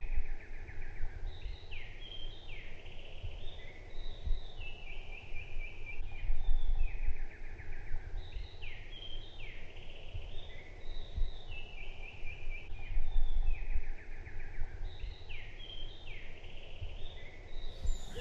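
Songbirds singing outdoors, short chirping phrases repeated every second or two, over low rumbling wind noise on the microphone.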